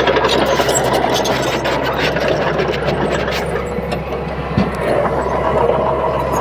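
Komatsu D31P bulldozer's diesel engine running steadily under work, with a rapid clatter of short clicks and knocks over it and one sharper knock about four and a half seconds in.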